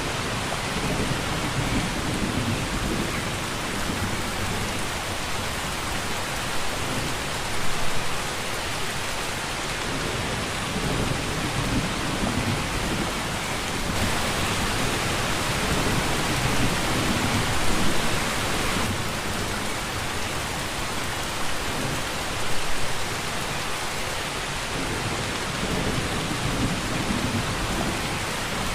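Steady rain falling, a constant hiss with low rumbling swells every few seconds. The hiss grows louder for several seconds midway, with a few brief louder peaks.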